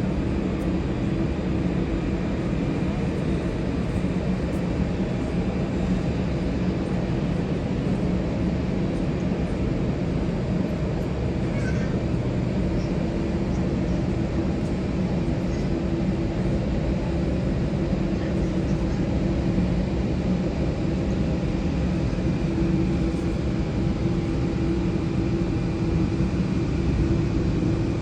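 Jet airliner engines running steadily, a constant hum with several held tones and no clear rise or fall.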